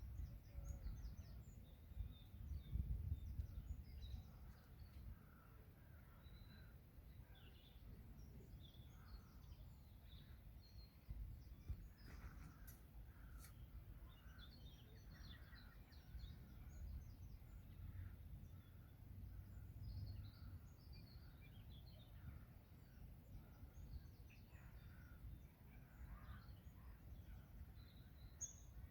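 Faint birdsong: many short chirps and calls scattered throughout, over a steady low rumble that is strongest in the first few seconds.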